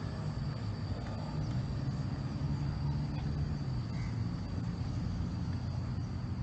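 Steady low outdoor rumble with a thin, steady high-pitched whine above it.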